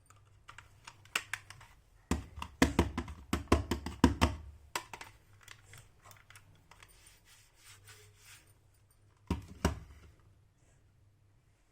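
Miniature toy washing machine and iron set pieces being handled: scattered small clicks, a quick run of clicking and rattling about two to five seconds in, then two knocks as something is set down near the end.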